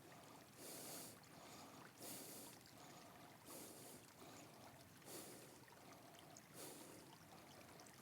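Near silence: a faint hiss that swells and fades at regular intervals, about every second and a half.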